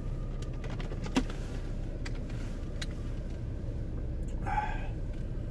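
Inside a moving car's cabin: a steady low engine and road rumble while driving, with a few faint clicks and a brief higher sound about four and a half seconds in.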